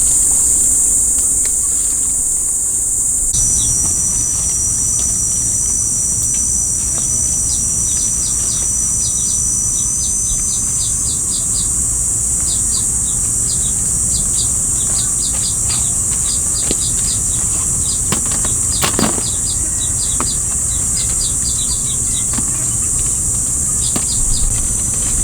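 Steady high-pitched insect drone with a thin whine above it, and quick runs of short bird chirps repeating throughout.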